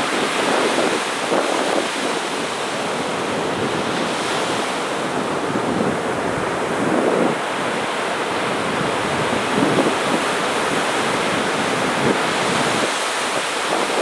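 Sea waves breaking and washing on a beach: a steady rush of surf that swells and eases every few seconds.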